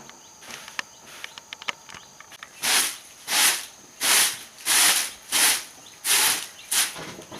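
Wood being worked by hand with rhythmic scraping strokes, about one and a half a second, starting about two and a half seconds in after a few light clicks.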